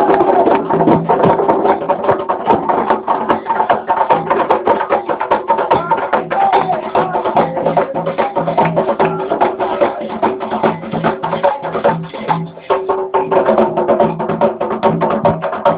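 Live Afro-Brazilian religious music: hand drums and dense, rapid clicking percussion with voices singing over it. The music dips briefly about twelve seconds in.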